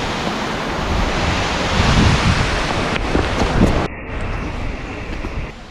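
Waterfall rushing, with wind buffeting the microphone. About four seconds in the sound cuts abruptly to a quieter, duller rush.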